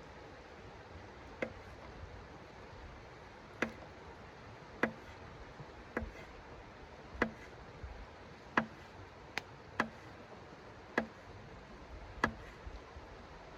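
A series of about ten sharp ticks or knocks at uneven intervals of roughly one to one and a half seconds, each with a brief faint ring, over a steady low hiss.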